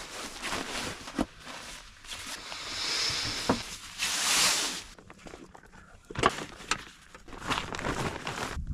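Camping gear being handled and packed: irregular rustling with scattered knocks and clicks, and two longer hissing swishes about two and a half and four seconds in.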